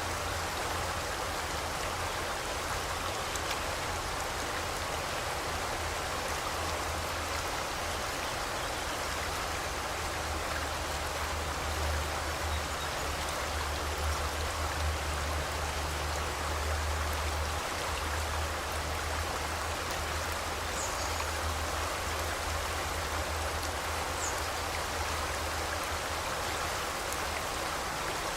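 Forest river rushing steadily over rocks, with a low rumble underneath. A couple of faint, short high bird chirps come about two-thirds of the way through.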